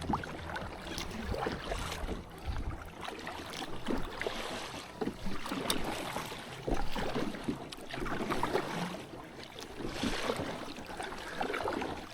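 Water swishing and splashing around a kayak, rising and falling in swells about every second and a half.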